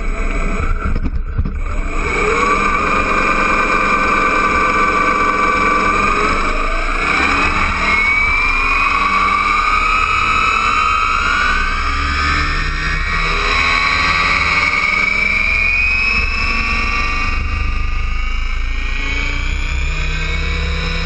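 Align T-REX 800 radio-controlled helicopter's motor and rotor whining steadily, its pitch sliding up and down as the head speed changes in flight, over a low rumble of wind on the microphone.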